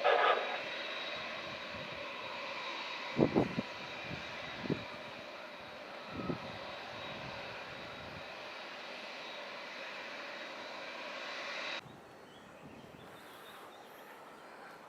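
Jet engines of a Boeing 787-9 airliner running, a steady rumble with a high whine. A few short low thumps come around three to six seconds in. The engine sound cuts off abruptly about twelve seconds in, leaving a quieter background.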